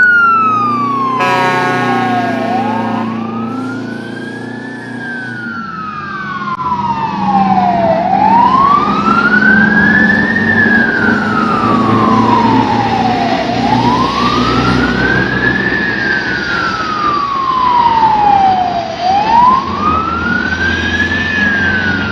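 Fire truck siren on a slow wail, climbing and then falling in pitch about every five and a half seconds. It runs over the low rumble of the trucks' engines, with a short, steady air-horn blast about a second in.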